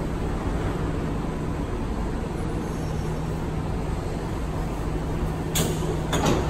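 Kawasaki & CRRC Sifang C151B MRT train standing at the platform, its equipment running with a steady hum and rumble. Near the end come two short, loud noises about half a second apart as the doors start to open.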